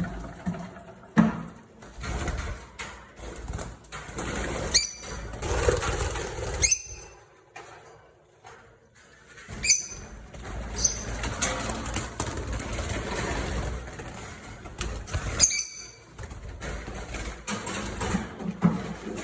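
Lovebirds calling: about five short, sharp, high-pitched chirps scattered through the stretch, over a steady background of noisy bird activity.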